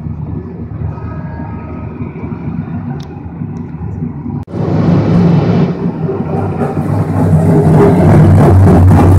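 The V8 engine of Ken Block's Hoonicorn, a 1965 Ford Mustang stunt car, running at a distance, then much louder and closer after a sudden jump about halfway through. Its deep drone swells over the last two seconds as the car comes nearer.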